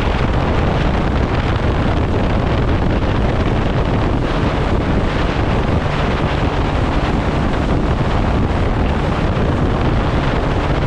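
Steady wind blasting the microphone of a jet ski running at speed, mixed with the rush of water.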